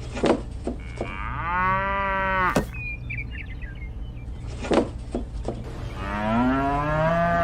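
A cow mooing twice, each call about a second long, over a steady low hum.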